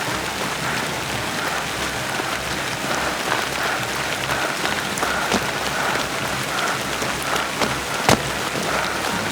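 Steady rain falling on hard surfaces, with a few sharper drip-like taps and one louder sharp click about eight seconds in.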